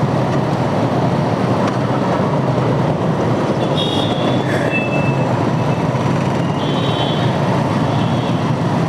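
Steady engine, wind and road noise of a motorcycle riding in heavy city traffic, picked up by a helmet-mounted action-camera mic. Two brief high-pitched tones sound around the middle.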